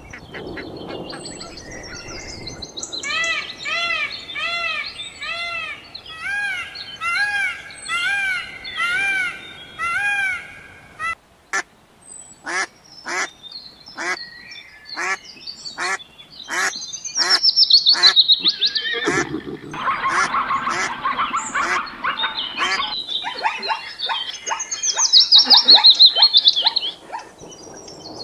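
A sequence of animal calls that changes as it goes: first a run of short arched calls with many overtones, about two a second, then a stretch of rapid clicks, then high chirping and trilling bird-like calls.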